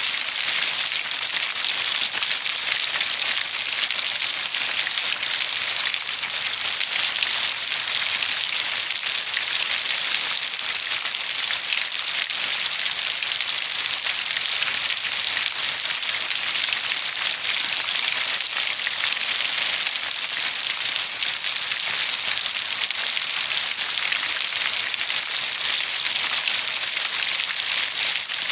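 Steady heavy rainfall, a dense even hiss of drops hitting a surface, with no single drops or thunder standing out.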